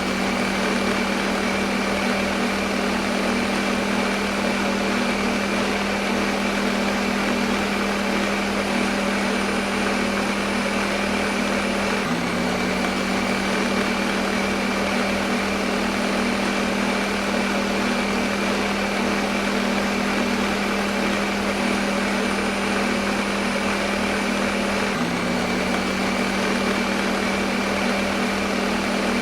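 Electric blender motor running steadily at one speed, a constant hum with a dense whirring hiss over it, used as white noise. The sound hitches briefly twice, about 13 seconds apart.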